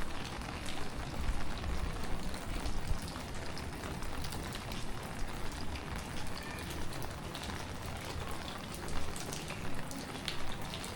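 Heavy tropical rain falling: a steady hiss with many sharp drop ticks, over a low rumble.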